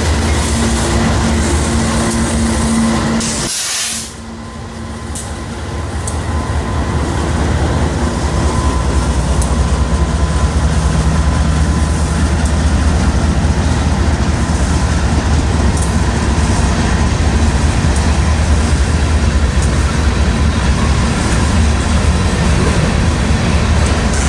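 Freight train passing close by: diesel locomotives running with a steady low engine tone, then covered hopper cars rolling over the rails in a steady rumble with a few faint clicks. The sound drops sharply about four seconds in and builds back over the next few seconds.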